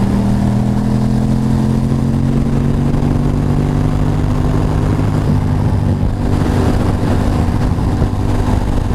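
Motorcycle engine running under way, its pitch rising slightly as the bike gently speeds up over the first five seconds and then holding steady. Steady wind and road noise from the wet road run underneath.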